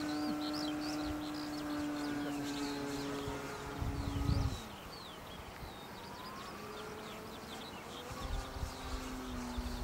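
Electric motor and propeller of an RC Cessna 182 model airplane whining steadily. The pitch falls away suddenly about halfway through as the throttle comes back, then rises and holds again near the end. Birds chirp throughout, and wind gusts rumble on the microphone.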